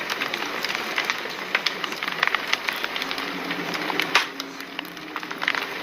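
Wood fire crackling: a steady hiss with many irregular sharp pops, one louder pop about four seconds in.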